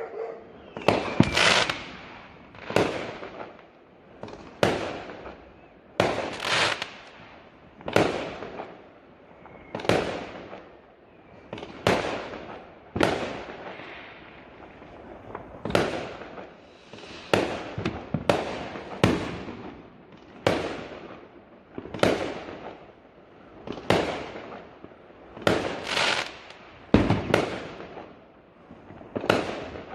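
Fireworks going off in a steady string of sharp bangs, roughly one every one to two seconds, each fading away over about a second.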